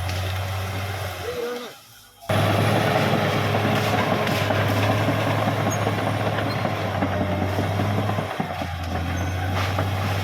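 Caterpillar D6R XL bulldozer's diesel engine running steadily under work. The sound cuts out briefly about two seconds in, then comes back louder and keeps a steady drone, easing slightly near the end.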